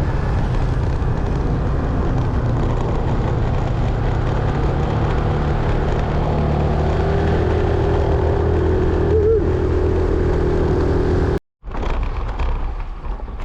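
Motorbike running at road speed, its engine note steady under a dense rush of road and wind noise. The sound cuts out abruptly for a moment near the end, then returns a little quieter.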